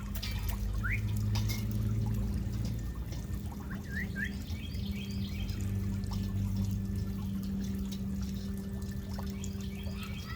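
A few short rising bird chirps, about a second in and again around four seconds in, over a steady low hum and hiss.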